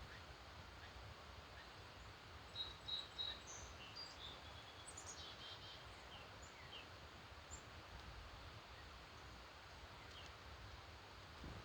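Dawn chorus: several small birds chirping and calling faintly in short high notes over a steady background hiss, with three louder notes in quick succession about three seconds in.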